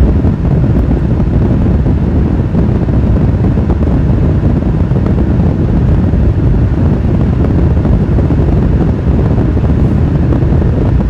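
Car driving at a steady pace: a loud, even rumble of road and wind noise, heaviest in the low end.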